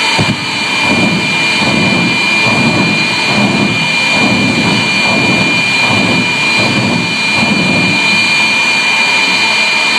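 Jet engine of a jet-powered fire truck running steadily: a high, even turbine whine over a low rumble that swells and fades.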